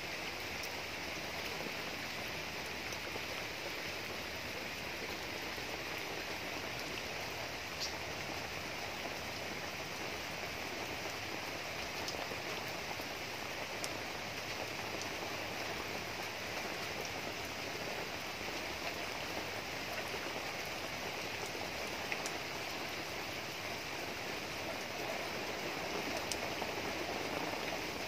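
Steady rain falling on leaves and muddy wet ground, with a few sharper single drop hits now and then.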